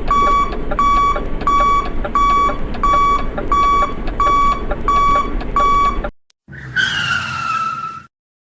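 Electronic backup-style beeper of a toy vehicle's sound module, beeping steadily about twice a second over a low motor rumble and stopping abruptly about six seconds in. A short falling electronic tone follows.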